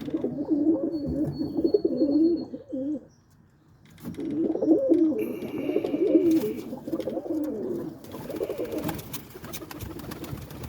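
Roller pigeons cooing in their coop, several overlapping warbling coos. There is a short lull about three seconds in before the cooing picks up again.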